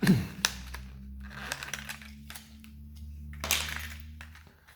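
Plastic lure packaging being handled and opened: crinkling and rustling with scattered sharp clicks, and a longer rustle about three and a half seconds in.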